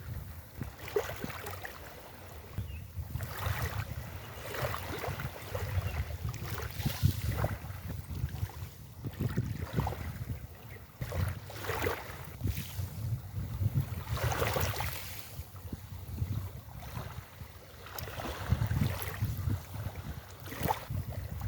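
Waves breaking and washing up the beach, swelling to a hiss every few seconds, over a steady low rumble of wind buffeting the microphone.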